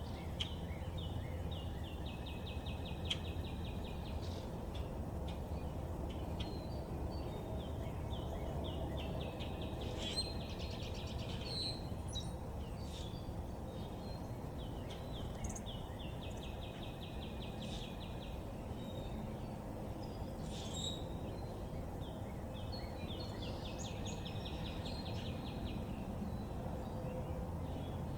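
A songbird singing a fast trill of rapidly repeated notes, four times, each about two to three seconds long and roughly seven seconds apart, with a few short chirps in between. A steady low background rumble runs underneath.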